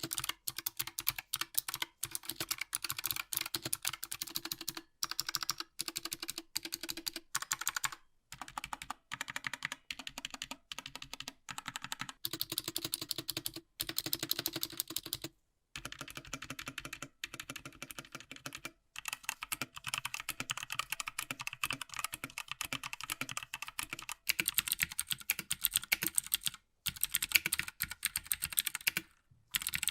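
Fast typing on a Redragon Draconic K530 mini mechanical keyboard: a rapid stream of key clicks, broken by a few brief pauses.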